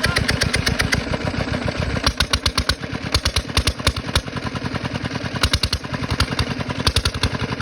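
An engine running with a loud pulsing beat, about ten pulses a second at first, turning uneven and irregular about two seconds in.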